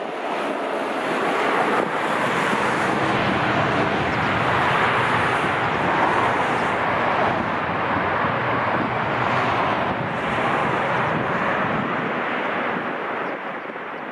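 Jet airliner passing, a steady rushing roar of its engines that swells over the first couple of seconds and slowly eases off near the end, with wind buffeting the microphone.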